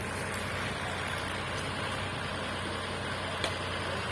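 Backhoe's diesel engine running steadily with a low hum, and one sharp click about three and a half seconds in.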